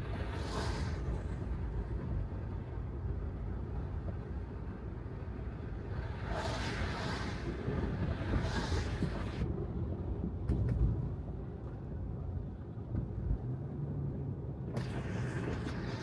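Steady low road rumble from a Tesla Model 3 driving, with no engine note, and tyres hissing on wet pavement that swells three times: near the start, for about three seconds midway, and again near the end.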